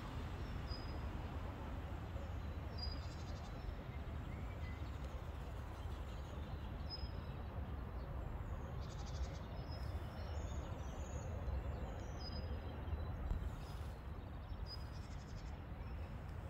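Outdoor dawn ambience: birds giving short, high chirps every second or two over a low, steady rumble.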